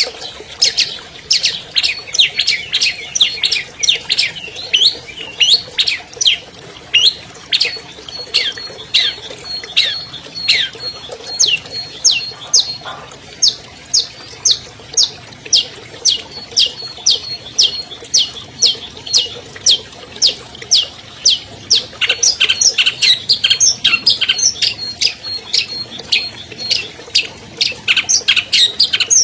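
Long-tailed shrike singing: a long run of sharp, downward-sweeping chirps, about two to three a second, breaking into a rapid dense chatter about two-thirds of the way through.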